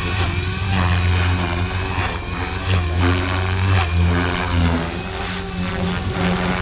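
Blade Fusion 480 electric RC helicopter in flight: a low rotor drone that swells and drops as it manoeuvres, with a high motor whine that wavers in pitch.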